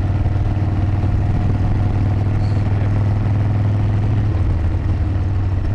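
Harley-Davidson motorcycle engine running steadily while riding, heard from on the bike with wind noise over it. The engine note dips slightly about two-thirds of the way through.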